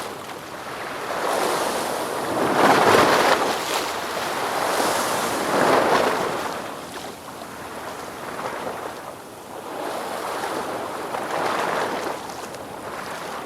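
Ocean waves breaking and washing in: a hiss of surf that rises and falls in swells. The loudest swells come about three and six seconds in, and gentler ones follow.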